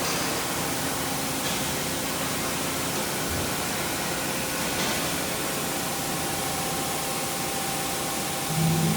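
CNC mill-turn machine running with a steady hiss and faint steady tones during shaft machining.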